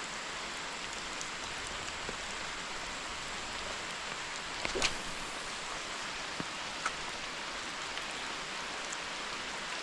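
Heavy rain falling in a steady, even hiss, with a few faint clicks in the middle.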